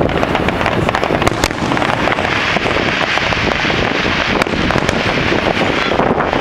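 Fireworks going off: continuous crackling with several sharp bangs, growing into a denser, brighter hiss from about two seconds in.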